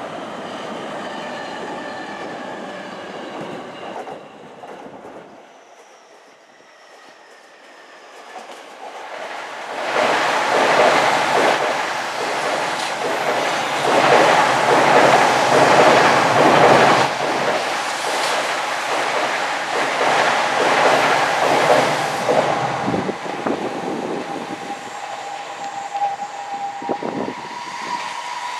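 Electric train passing close by: a loud rumble with the rapid clickety-clack of wheels over rail joints, building about a third of the way in and easing off after the middle. A steady whine remains near the end.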